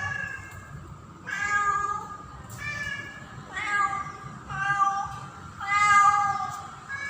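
Female domestic cat in heat calling for a male: a string of meowing calls, each under a second long, about one a second.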